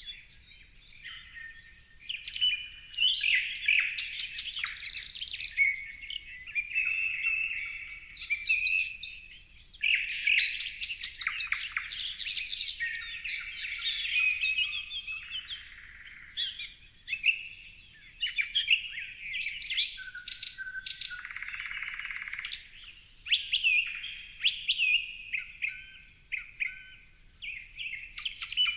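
Several birds chirping and twittering together: a dense chorus of short, high calls and quick trills, with brief lulls.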